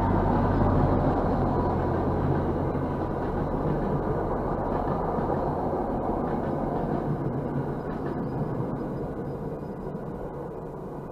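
MBTA commuter rail train passing over a grade crossing: a steady rumble of its coaches on the rails that is loudest at first and slowly fades. It is heard from inside a car.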